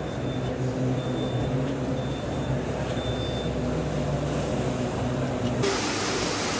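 Steady low machine hum over general exhibition-hall noise from popcorn-processing machinery. About five and a half seconds in, the sound changes abruptly to a brighter, hissier noise.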